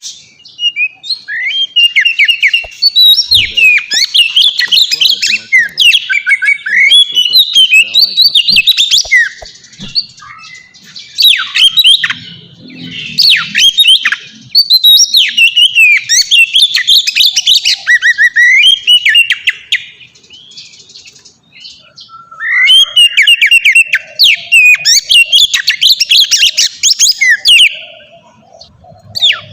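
Oriental magpie-robin (kacer) singing a loud, melodious full song of rapid, varied whistles and trills, in long phrases broken by short pauses.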